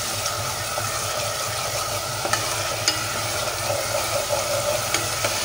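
Masala of crushed spices frying in oil with a little water in a pan, sizzling steadily as a spatula stirs it, with a few light clicks.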